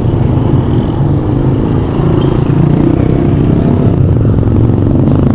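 A motor vehicle's engine running steadily and fairly loudly, with a low, even hum.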